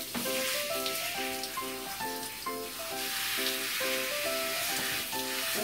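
Handheld shower head spraying water onto a dog's coat: a steady hiss of running water. Over it plays light background music, a melody of short repeated notes.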